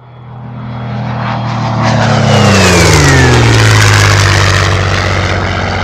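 Propeller airplane passing low and close, its engine growing louder and then dropping in pitch as it goes by.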